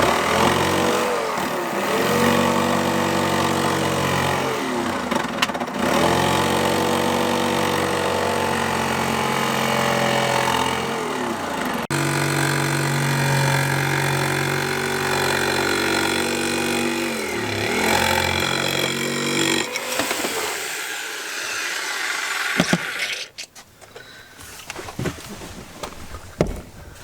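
Electric jigsaw running and cutting, its motor note dipping briefly every few seconds, then fading off about 20 seconds in and stopping a few seconds later. The jigsaw is worn: its blade clamp no longer holds the blade properly.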